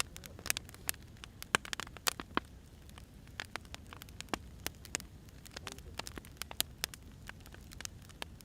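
Firewood burning, crackling with irregular sharp pops, several a second, over a low steady rumble.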